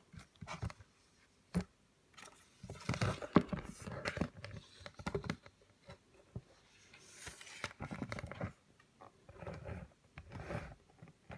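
A paper picture book being handled and its pages opened and turned: irregular paper rustling with light taps and scrapes.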